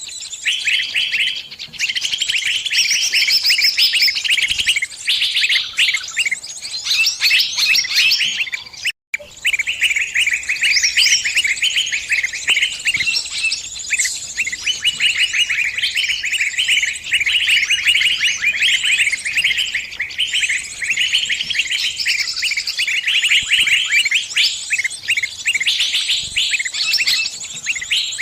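Bird distress calls: rapid, harsh chirps repeated almost without pause, the cries of a trapped bird calling for help. There is a brief break about nine seconds in.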